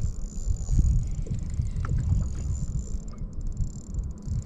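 Wind buffeting the microphone on a kayak: a loud, uneven low rumble, with a few faint clicks about two seconds in.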